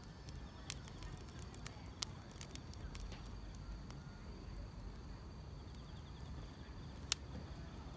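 Wood fire crackling, with irregular sharp pops over a low steady rumble; the loudest pop comes about seven seconds in. A faint, steady chirring of grass insects runs underneath.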